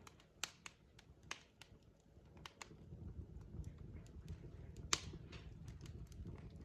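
Burning logs in a fireplace crackling: irregular sharp pops and snaps over a low rumble of the fire, with the loudest pop about five seconds in.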